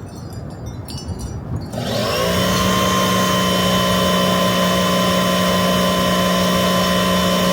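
A small electric motor tool spins up about two seconds in, then runs at a steady speed with a constant whine.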